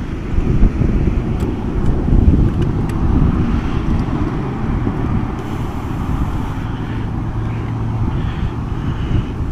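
Wind buffeting the microphone: a heavy low rumble that gusts up and eases irregularly, with a few faint clicks.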